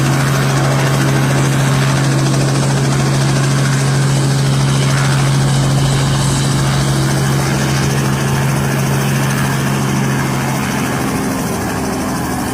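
Helicopter running nearby: a steady low hum over rotor and engine noise, growing a little quieter over the last few seconds.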